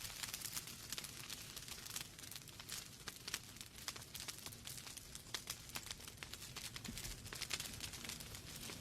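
Wood fire burning in a fireplace: logs crackling with frequent irregular sharp pops over a steady soft hiss.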